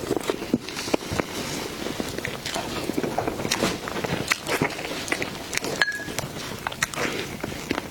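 Close-miked eating sounds: a person chewing and biting, with many quick, irregular wet mouth clicks and crackles.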